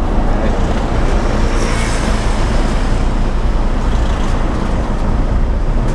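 Toyota Fortuner VNT turbodiesel on the move, heard from inside the cabin: a steady engine drone mixed with road and tyre noise.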